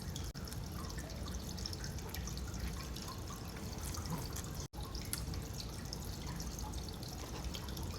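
Close-miked chewing of a cheeseburger: soft wet mouth sounds and small ticks. It breaks off for an instant a little past halfway.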